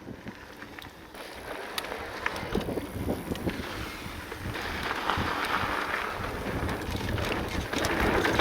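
Wind buffeting the microphone and mountain bike tyres rolling over a dirt trail on a descent, with scattered sharp clicks and rattles from the bike. The rush gets louder from about halfway in.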